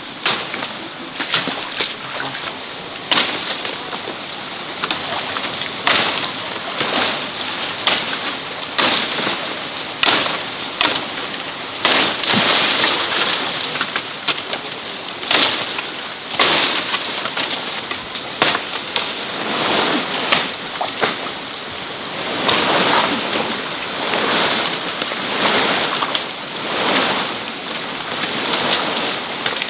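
Water splashing and sloshing in irregular surges, with many small sharp knocks and splatters mixed in.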